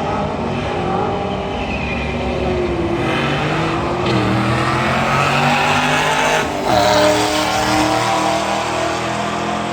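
Car engine running hard under acceleration, its pitch climbing and then breaking twice, about four and six and a half seconds in, as it shifts gears.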